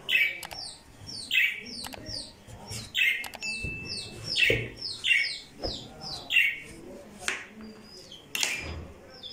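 A bird chirping over and over, short downward-sliding chirps about once or twice a second, with a few sharp knocks of a kitchen knife cutting through squash onto a plastic cutting board.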